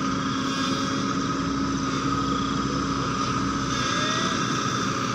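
Heavy diesel machinery engine running steadily, with a constant low hum and a steady higher whine held throughout.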